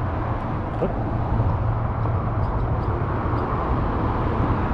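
Steady highway traffic noise: a continuous low rumble with a haze of higher noise above it.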